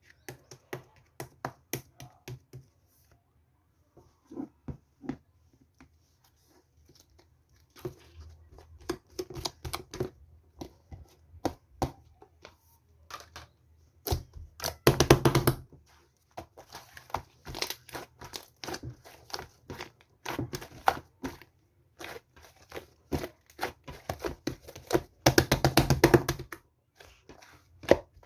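Handling noises: irregular clicks and taps, with two louder rustling bursts, each about a second long, roughly fifteen and twenty-six seconds in.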